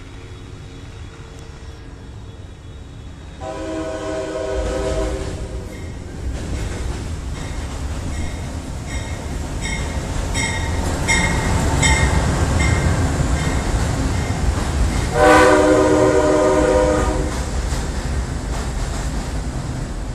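A train blowing its multi-tone horn twice, a long blast a few seconds in and another near the end, while it rumbles across a railroad bridge with its wheels clacking steadily over the rail joints.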